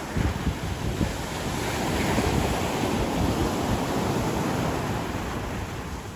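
Ocean surf breaking and washing up on a beach, with wind buffeting the microphone in a low rumble. The wash swells about two seconds in and eases off near the end.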